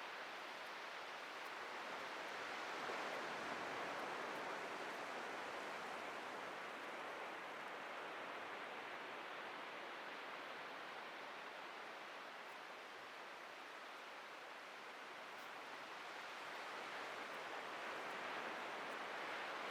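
Atlantic surf washing onto a beach: a steady hiss of breaking waves that swells about three seconds in, eases off in the middle and builds again near the end.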